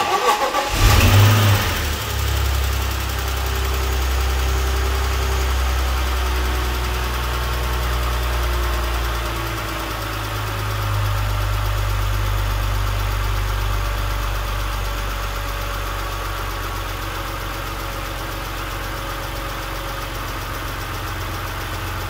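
BMW Z3's straight-six petrol engine starting up: it catches and flares loudly about a second in, then settles into a steady idle.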